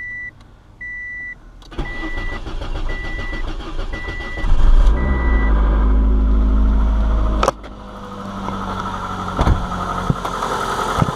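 A dashboard warning chime beeps about once a second while the 1998 Ford Escort ZX2's four-cylinder engine cranks and catches, starting from cold after sitting three weeks, then runs loudly. After a sudden break it settles to a steadier, quieter idle.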